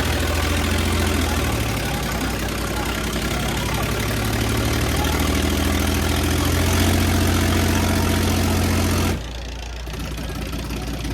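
Diesel tractor engine running hard under load, its low pitch wavering slightly. The sound drops away abruptly about nine seconds in, leaving a quieter engine sound.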